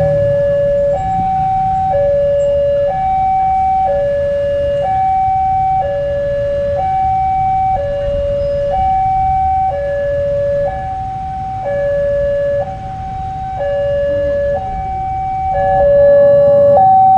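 Railway level-crossing warning alarm sounding: an electronic two-tone signal alternating between a lower and a higher note about once a second, warning that a train is approaching. A low rumble runs underneath and grows louder near the end.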